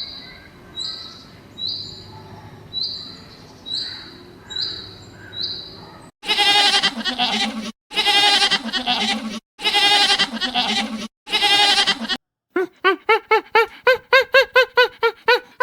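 A run of animal calls from three different animals: a high, short chirp repeated about once a second, then four long pitched calls, each about a second and a half, then a fast series of short squeaks, several a second.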